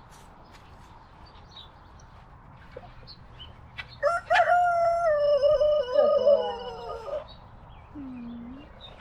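Rooster crowing once: a single long cock-a-doodle-doo of about three seconds starting about four seconds in, slowly falling in pitch toward the end.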